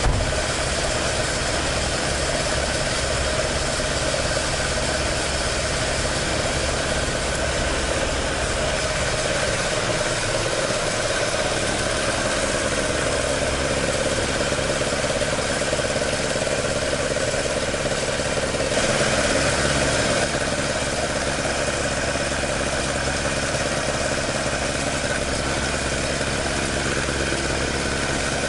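Toyota AE86's 4A-G twin-cam four-cylinder, fed by twin side-draft carburettors, idling steadily, briefly a little louder about two-thirds of the way through.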